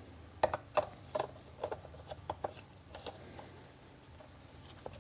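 Light clicks and taps, about a dozen spread irregularly over the first three seconds, from handling the bar-and-chain oil bottle and the filler cap of an electric chainsaw's oil reservoir during refilling.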